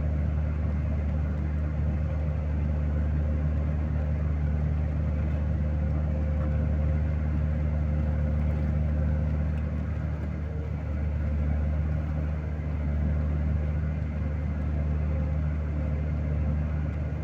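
Vehicle engine running steadily at an even pitch, a low hum with a faint steady whine above it and no change in speed.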